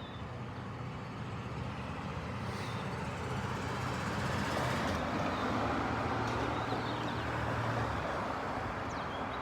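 Engine rumble with a steady low hum, building over the first few seconds and easing slightly near the end.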